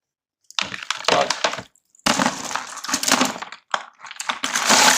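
A mass of rock snail shells clattering and grinding against each other in a bucket: dense rattling clicks in several bursts, with short pauses.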